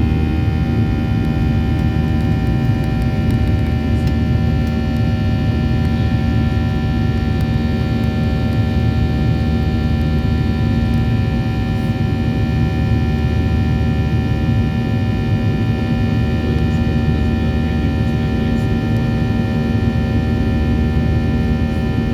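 Boeing 737-800's CFM56-7B turbofan engines running steadily, heard inside the cabin as a loud rumble with a steady multi-tone hum.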